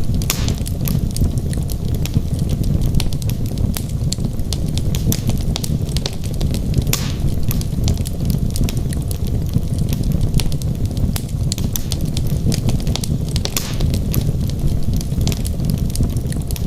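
Wood logs burning in a fireplace: a steady low rumble with frequent sharp crackles and pops.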